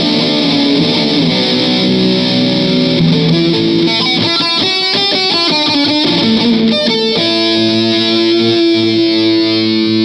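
Electric guitar playing a lick, with a quick run of short notes midway and longer held notes near the end.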